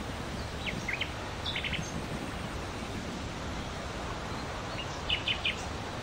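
Birds chirping: small clusters of short, high chirps come about a second in and again near the end, over a steady outdoor background hiss.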